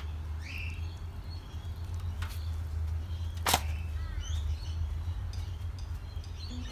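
Birds chirping in short calls, over a steady low hum. A single sharp knock about three and a half seconds in.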